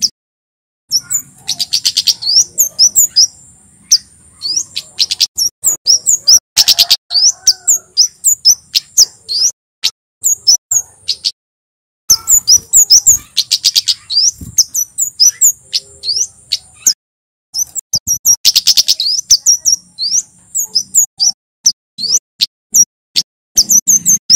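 Male kemade (Javan flowerpecker) singing: rapid runs of sharp, high chirps in dense clusters, broken by a few short pauses.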